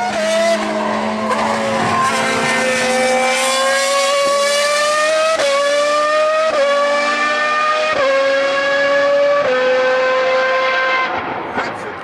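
High-revving Ferrari engine, racing car, accelerating hard through the gears: a high, steady note that climbs slowly and dips briefly at each upshift, about every one to one and a half seconds, then fades near the end.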